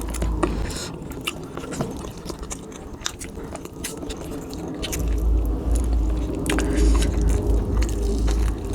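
Close-up mouth sounds of eating bhakka with chicken gravy: chewing, biting and small wet clicks of the mouth. A low rumble underneath swells from about five seconds in.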